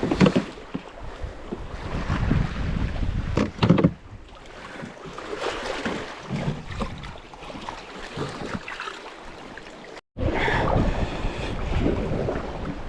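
Water splashing and lapping around a canoe, with wind on the microphone and a few hard knocks in the first four seconds; the sound drops out for a moment about ten seconds in.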